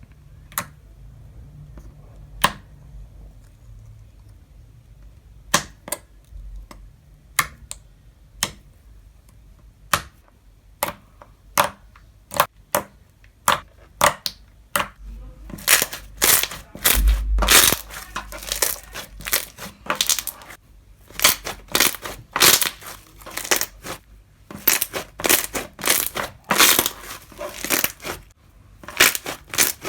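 Crunchy slime being pressed and squeezed by hand: sparse sharp crackles and pops at first, then from about halfway a dense run of crunching and crackling.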